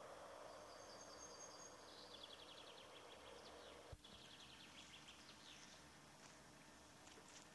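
Faint songbird song under tape hiss: a thin high note, then rapid trills that fall in pitch. A single sharp click about four seconds in.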